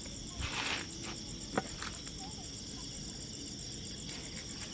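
Insects chirping steadily in high, fast-pulsing trills, with a short rustle about half a second in and a sharp click about a second and a half in.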